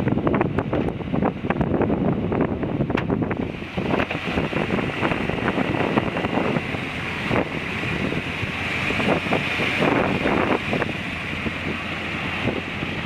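1992 Chevy 3500 dually dump truck running, with wind buffeting the microphone and many irregular clicks and knocks. About four seconds in, a steady hiss in the upper range grows stronger.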